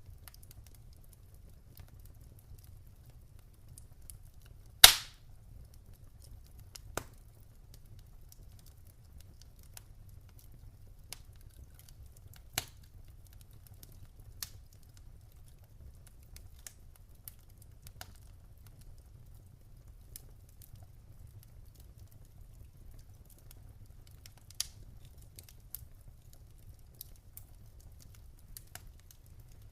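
Wood fire in a fireplace crackling: sparse sharp pops and snaps over a low steady rumble, with one loud pop about five seconds in.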